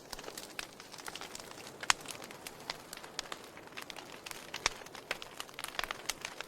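Fire burning in a fireplace, crackling with irregular sharp pops over a soft steady hiss; the two loudest pops come about two seconds in and just before five seconds in.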